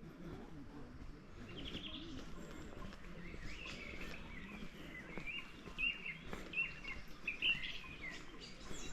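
Small birds chirping and twittering in quick short notes, starting about a second and a half in and growing busier, over a steady background hum of ambient noise.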